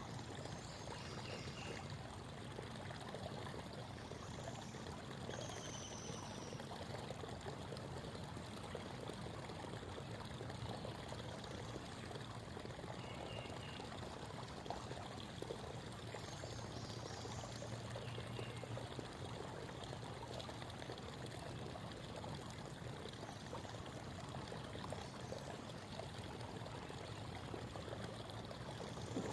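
Small creek babbling steadily over stones, with a few faint, short bird calls now and then.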